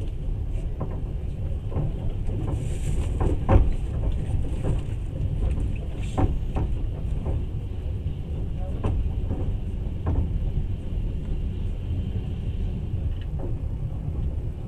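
Passenger train running at speed, heard from inside the carriage: a steady low rumble with irregular knocks and clicks from the wheels on the track, the loudest knock about three and a half seconds in.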